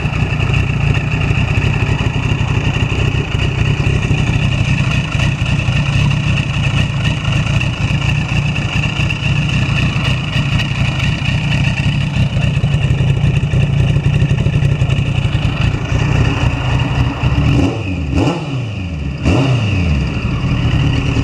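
Kawasaki ZX-10 motorcycle's inline-four engine running steadily, then revved in a few quick blips near the end, the pitch sweeping up and falling back each time.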